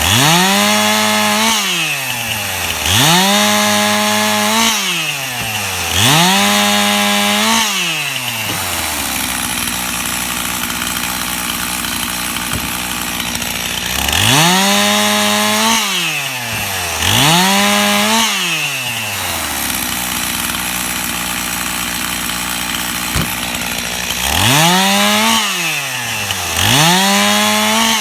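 Stihl gas chainsaw cutting limb wood: short full-throttle bursts about three seconds apart, each revving up quickly, held briefly and falling back, three in a row, then idling for a few seconds, then two more, another idle, and two more near the end.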